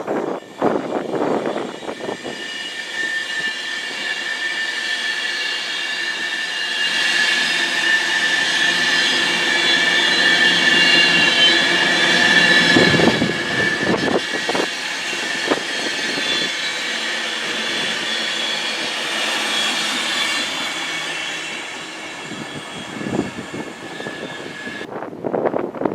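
A train passing on the line, with a steady high whine over running noise that grows to a peak about halfway through, then eases away and cuts off abruptly near the end.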